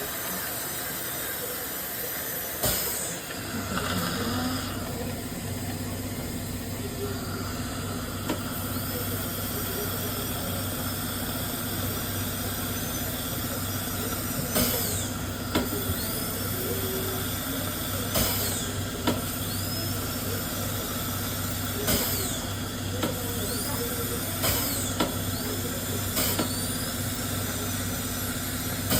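Dental high-speed handpiece running with water spray while cutting a tooth preparation on an upper first molar: a steady high hiss and whine with small rising glides in pitch. A low steady hum comes in about three seconds in, and short clicks sound now and then.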